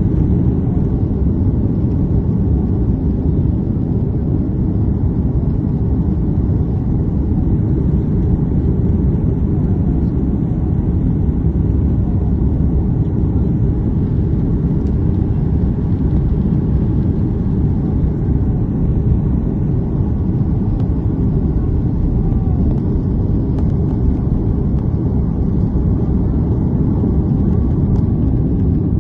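Steady low rumble inside a jet airliner's cabin as it departs: engine and airflow noise.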